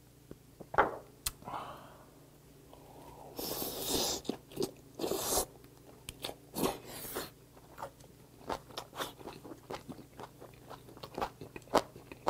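Eating sounds close to a clip-on microphone: boiled hagfish slurped in with a couple of longer hissing sucks, then wet chewing with many short clicks and lip smacks.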